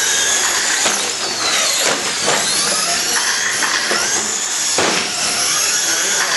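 Several radio-controlled short course trucks racing. Their motors whine at a high pitch, rising and falling as they speed up and slow down, with the whines overlapping.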